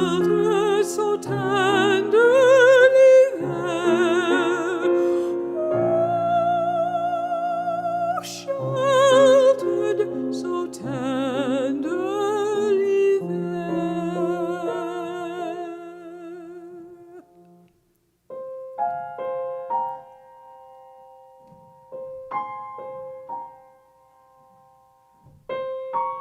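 Classical soprano holding long, wide-vibrato notes over piano accompaniment, ending a sung phrase about two-thirds of the way through; the piano then plays a few quiet, spaced-out chords on its own.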